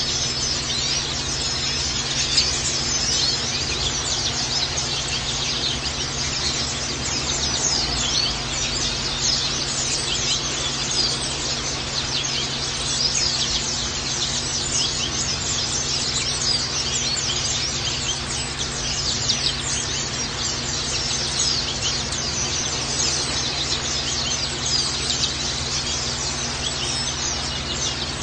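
Many white-eyes (pleci) chirping at once, a steady stream of short, high-pitched overlapping chirps.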